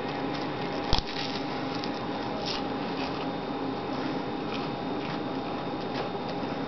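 A man chewing a mouthful of sandwich: soft, wet mouth sounds over a steady hiss, with one sharp click about a second in.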